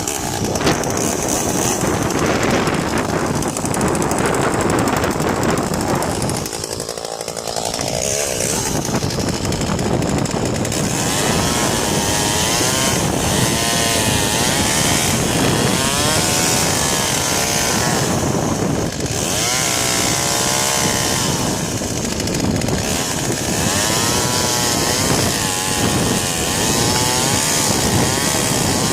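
Chainsaw running loudly and continuously, with a brief drop about seven seconds in; in the second half its engine pitch rises and falls again and again.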